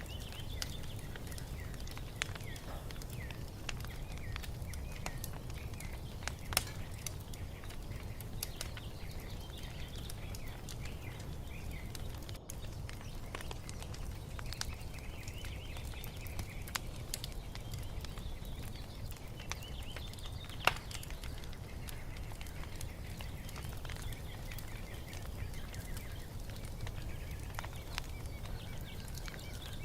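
Wood fire crackling, with scattered sharp pops over a steady low rumble and one loud pop about two-thirds of the way through. Small birds chirp and twitter throughout.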